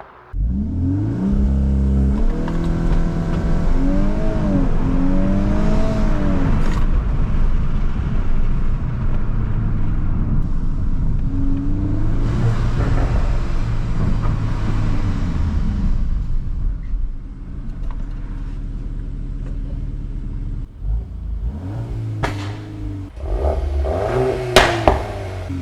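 VW Golf 8R's turbocharged 2.0-litre four-cylinder, breathing through an Akrapovic exhaust, cuts in suddenly at hard acceleration. Its pitch climbs and drops in steps with the gear changes, then it runs on steadily. Near the end come a few sharp cracks.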